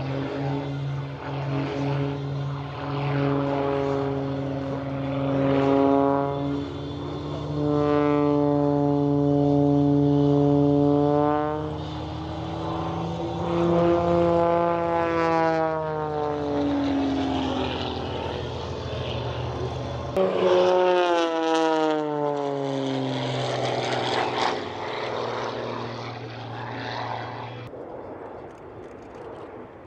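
Propeller aerobatic plane's engine during a stunt display, its pitch rising and falling several times as it manoeuvres. The engine note drops away sharply about two-thirds of the way through, then rises again and fades near the end.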